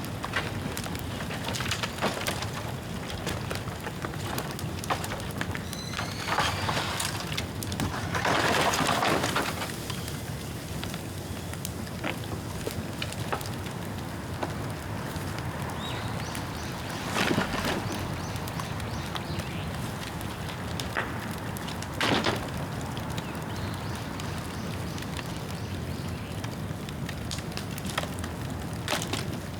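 Bonfire of wet bamboo burning: a steady crackle with scattered sharp pops and a few louder bursts, the strongest lasting about a second and a half around eight seconds in.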